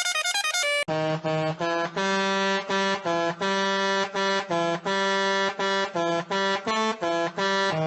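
Musical bus horn playing a quick tune of short honked notes, each sounding several tones at once, with brief gaps between them. About a second in, one horn clip cuts off and another starts.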